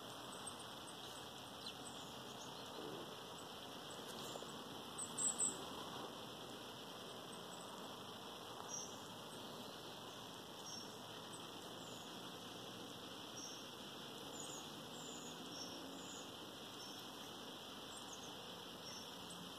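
Short, faint, high-pitched bird chirps scattered throughout, with a louder sharp pair about five seconds in, over a steady hiss.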